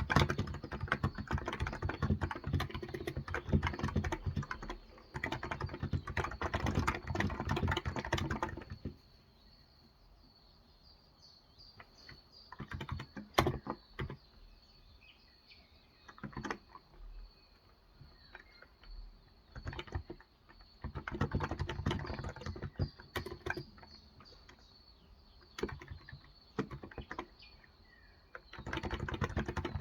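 Typing on a Cox Endeavor electrostatic capacitive (Topre-style) tenkeyless keyboard with 35 g switches. A fast run of keystrokes lasts the first eight seconds or so, then comes a lull with a few single clicks, then more bursts of typing. Faint bird chirps sound during the lull.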